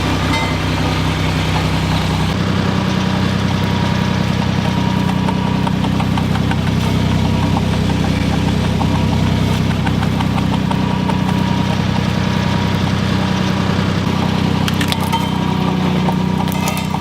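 Road roller's engine running steadily, its hum stepping up a little about two seconds in as it works harder. A few sharp crackles come near the end, as things are crushed under the roller.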